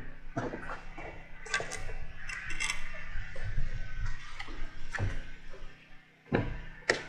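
Scattered light knocks and clicks at uneven intervals, with a short patch of scraping hiss about two to three seconds in.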